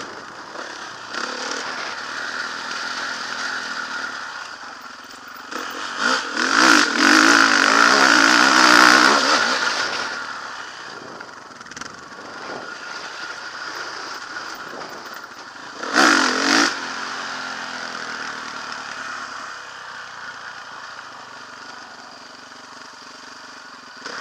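Motocross bike engine running with wind noise, revving loudly for several seconds from about six seconds in, then a short hard rev burst later on.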